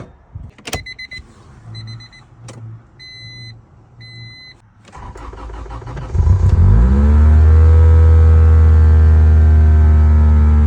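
Four short electronic beeps with a few clicks, then a 1996 Acura Integra's 1.8-litre four-cylinder engine cranks, catches about six seconds in, revs up and settles into a loud, steady fast idle: a cold start after sitting for eight years.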